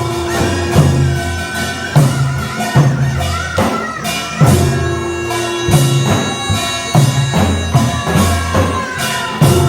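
Korean traditional dance accompaniment: a reedy wind instrument plays a wavering, sustained melody over a steady drum beat, with strokes falling a little under a second apart.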